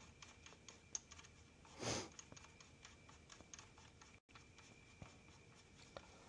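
Faint, irregular light clicks of connecting-rod cap bolts being run in and snugged on a Continental Z134 gas engine, with a short soft rustle about two seconds in.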